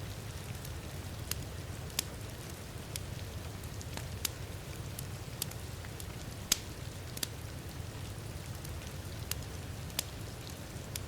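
Wood fire crackling, with sharp, irregular pops, the loudest about six and a half seconds in, over a steady low wash of heavy rain.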